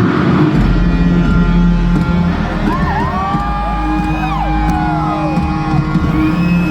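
Live concert intro music through a large PA: sustained synth chords over a deep bass that comes in about half a second in, with high gliding tones sweeping up and down in the middle. The crowd cheers underneath.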